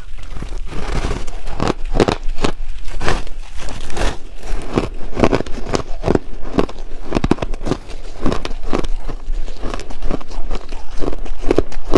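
Chunks of ice being bitten and chewed close to the microphone: a dense, irregular run of sharp cracks and crunches.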